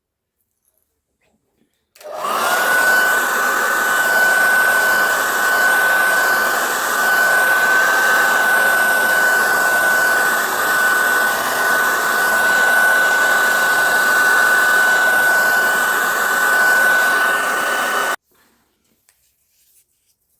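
Handheld hair dryer blowing steadily with a high whine; it is switched on about two seconds in, the whine gliding up as the motor spins up, and switched off abruptly about two seconds before the end.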